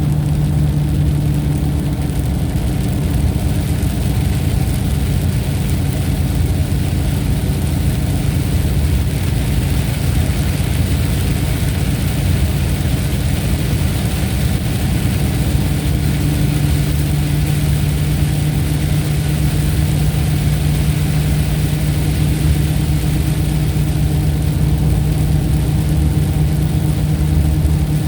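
Steady, unbroken low engine drone with a constant hum, which grows stronger about sixteen seconds in.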